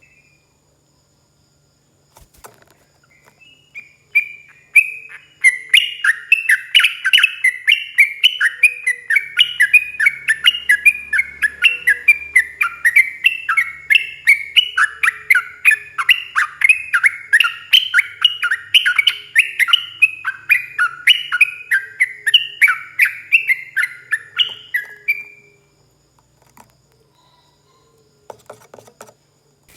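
Yellow-vented bulbul (trucukan) singing a long, fast rolling song: a continuous run of rapid chattering notes, about four to five a second, that stops about 25 seconds in.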